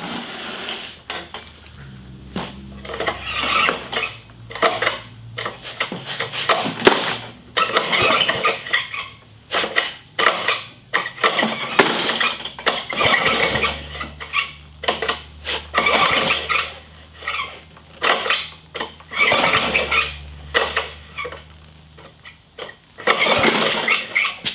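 Honda HR216 lawn mower's small engine being pull-started on choke after years of sitting, catching and running in rough, uneven bursts with short drop-outs, a low hum holding for stretches between them. It runs terribly, surging.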